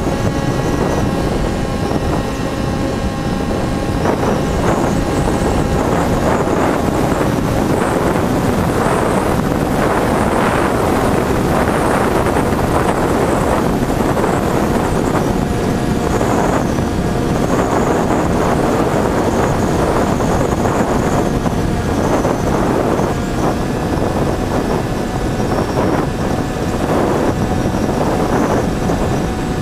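Electric motors and propellers of a Finwing Air Titan RC plane in flight: a steady motor whine with several held tones under a loud rush of wind and airflow noise.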